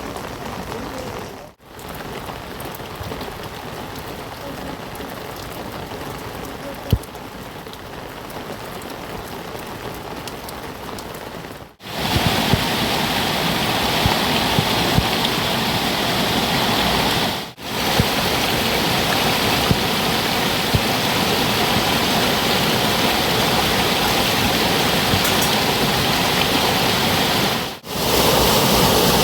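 Steady rain falling, in several shots separated by brief drops in sound. About twelve seconds in, the rain becomes much louder, with more high hiss, and stays that way.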